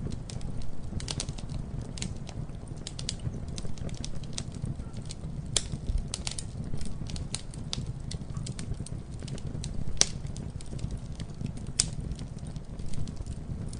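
Campfire burning, with a steady low rumble of flames and irregular crackling and sharp pops of wood, a few louder snaps among them.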